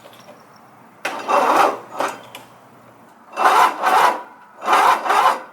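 Riding lawn mower's electric starter cranking the engine in four short bursts, each under a second; the engine does not catch.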